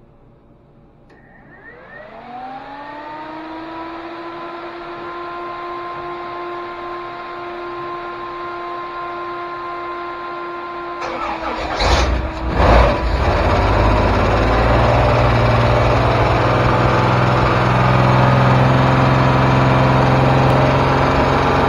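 Freshly rebuilt 4.3 L Chevy V6 on its first start. An electric whine spins up and holds steady for about ten seconds. The engine then catches with two loud pops about twelve seconds in and settles into running steadily.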